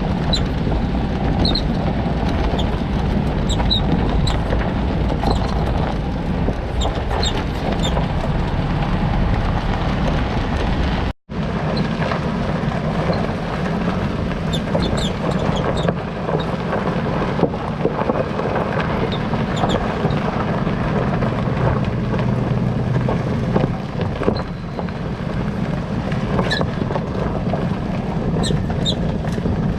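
Toyota Land Cruiser Prado 90 in motion, with steady road and running noise and short high-pitched squeaks now and then from its rear suspension.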